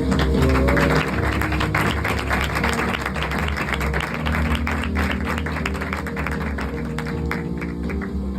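Music with steady held low notes, and audience applause over it through most of the stretch, thinning out near the end.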